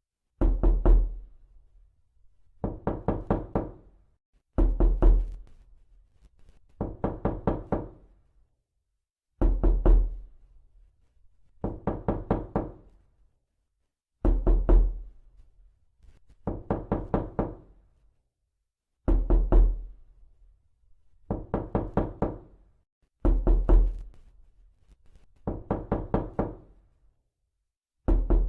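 Knocking in repeated bouts: each bout is several quick raps lasting about a second and a half, with about a second of silence before the next, about twelve bouts in all.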